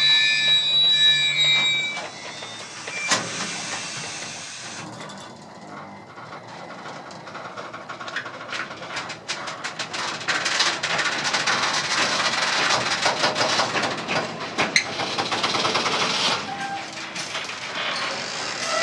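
Freight wagons rolling slowly past on their bogies, steel wheels running on the rail with many clicks and knocks, growing louder and busier after about eight seconds.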